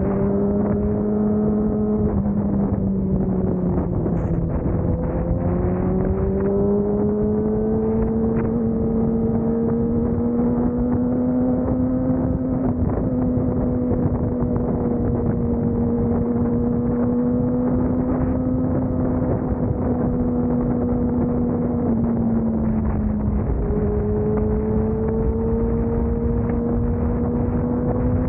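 Motorcycle engine running at a steady pitch while riding, with wind rushing on the microphone. The pitch sags and climbs back about four seconds in, and breaks briefly and resumes a little lower about 22 seconds in.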